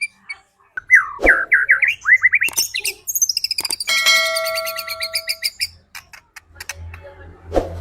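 White-rumped shama (murai batu) singing, played as a lure recording. It is a run of fast rising and falling whistled notes, followed by a rapid buzzy trill and a few sharp clicks. A low hum comes in near the end.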